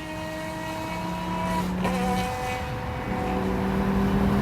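Ferrari 599's naturally aspirated 6.0-litre V12 with headers and a race exhaust running, growing steadily louder, with a change in engine pitch a little under two seconds in.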